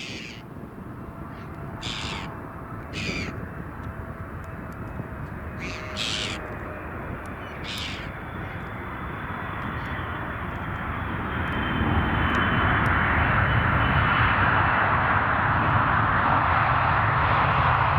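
An arriving aircraft's engines, growing steadily louder and becoming a loud, steady roar about two-thirds of the way through. A bird caws several times in the first half.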